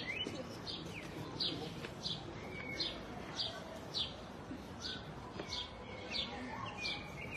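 A small songbird calling over and over: short, high notes, each sliding down in pitch, repeated about every three quarters of a second, over faint outdoor background noise.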